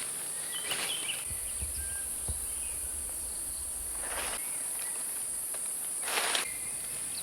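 Steady high-pitched insect chorus from the jungle, with three short rustling crunches of footsteps on leaf litter: about a second in, near the middle, and near the end.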